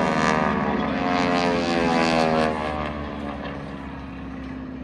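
Propeller aerobatic planes with big Pratt & Whitney radial engines passing by in a flyby, the engine note sliding down in pitch as they go past and fading after about two and a half seconds.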